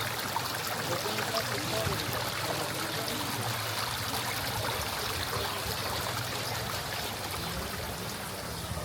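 Running water flowing steadily, an even rushing noise with no breaks.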